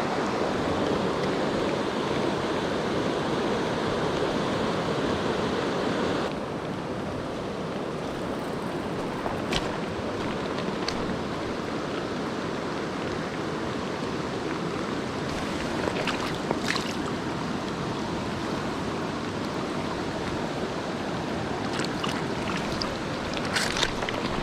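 Mountain stream water rushing steadily, dropping slightly in level about six seconds in. A few short clicks and knocks sound now and then over it.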